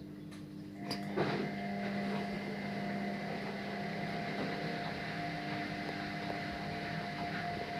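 Washing machine running: a steady motor hum with a thin whine, growing louder after a click about a second in.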